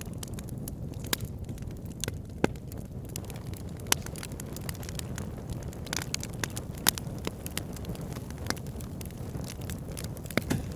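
Wood fire burning in a fireplace: a steady low rumble of flames with irregular sharp pops and snaps of the burning wood.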